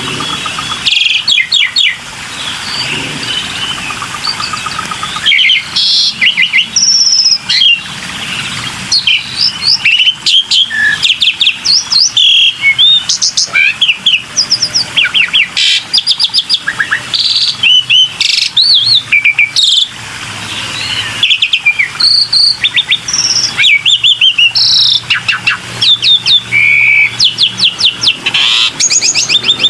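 Black-winged starling (jalak putih) singing a loud, varied song of quick whistled notes, rapid trills and chattering phrases, broken by short pauses.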